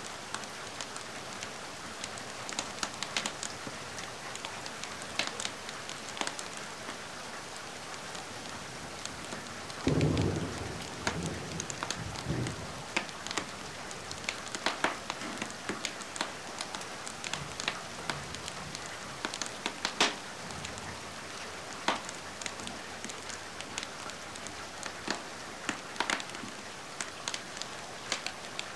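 Steady rain hissing, with the sharp scattered pops of a crackling wood fire. About ten seconds in, a low rumble of thunder lasts a couple of seconds.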